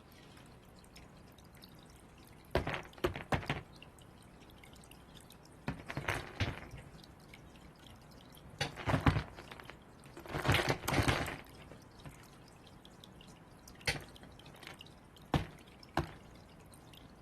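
A bird pecking and knocking at food on a hard surface, in several short flurries of quick strikes, then three single knocks near the end.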